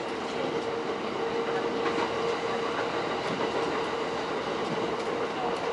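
E231 series electric train running at speed, heard inside its lead car: a steady rumble with a level whining tone, and occasional light clicks of the wheels over the track.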